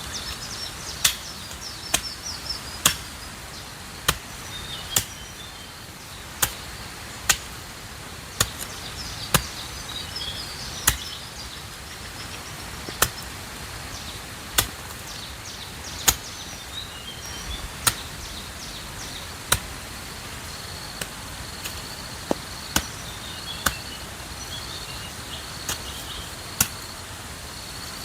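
Sharp chopping strikes, roughly one a second with short pauses, over high chirping; a steady high insect trill comes in during the second half.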